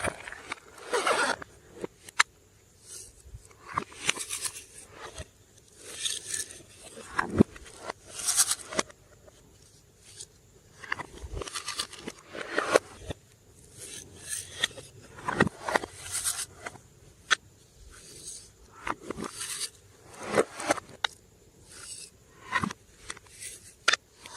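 Glossy slime being squeezed, stretched and mixed by hand: wet squelches and sharp sticky clicks in irregular bursts, about one every second or two.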